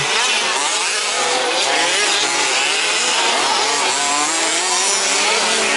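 Several 1/5th scale two-stroke petrol RC truck engines racing, their high-pitched buzz rising and falling as they rev and back off around the track.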